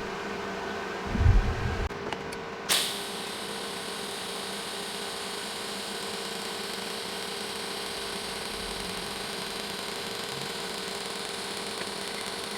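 An electrical machine's cooling fan running steadily with a constant hum. There are a couple of low knocks about a second in, then a sharp click a little under three seconds in, after which a steady hiss joins the hum.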